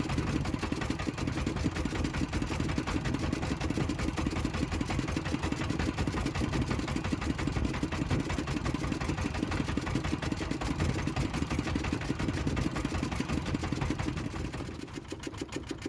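Small fishing boat's engine running steadily, its level dropping a little near the end.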